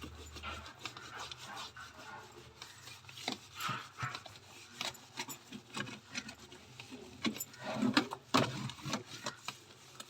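Scrubbing and rubbing inside a refrigerator to clean off grime, in short, irregular strokes with a few light knocks.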